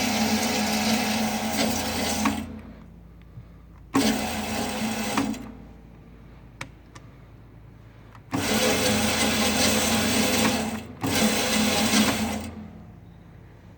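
Electric motor of a metal-cutting band saw running in four short bursts of about one to two and a half seconds each, starting abruptly and winding down briefly each time it is switched off. A couple of sharp clicks fall in the pauses between runs.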